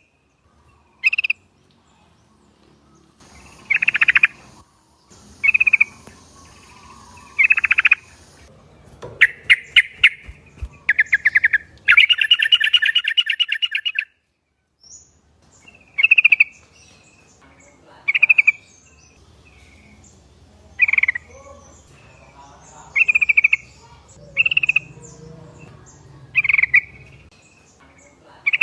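Yellow-vented bulbuls (trucukan) calling: short, bubbly notes repeated every second or two, with a run of fast chattering notes in the middle.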